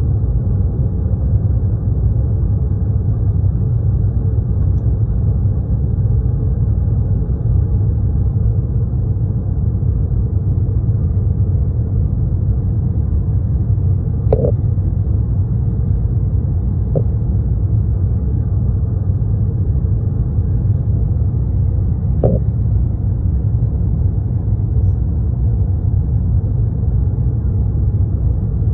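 Airliner cabin noise heard from inside the cabin: a steady, deep rumble of the engines and airflow, with a few faint clicks around the middle and later on.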